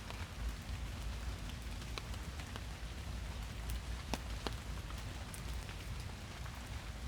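Steady rain falling in a forest, a continuous patter with scattered sharper, distinct drops landing close by, a few of them clearer about four seconds in.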